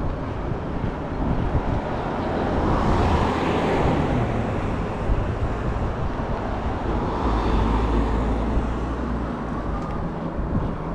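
Road noise while riding an e-bike: a steady rushing sound that swells twice, about three seconds in and again about seven seconds in, with a low rumble under the second swell.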